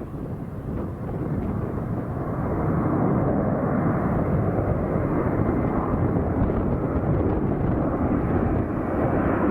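Jet airliner engines roaring, the sound building over the first few seconds and then holding steady and loud as the aircraft passes close by.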